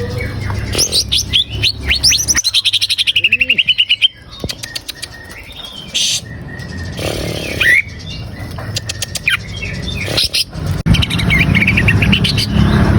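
Greater green leafbird (cucak ijo) singing loudly: a run of fast, varied chattering notes, a rapid rattling trill and whistled glides, over a low steady hum.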